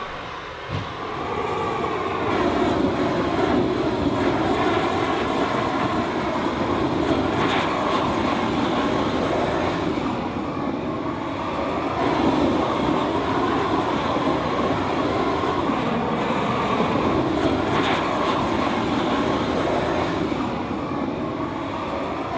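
Large torch burning with a steady rushing noise that wavers slightly as it heats a titanium exhaust to colour the metal.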